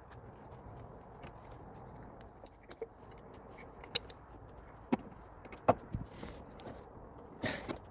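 Scattered clicks and knocks of hand tools and parts being handled in a car's engine bay, with a short scraping rustle near the end.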